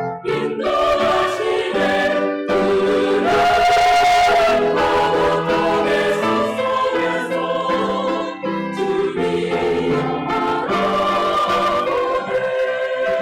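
Church choir singing a sacred anthem in several parts, with instrumental accompaniment.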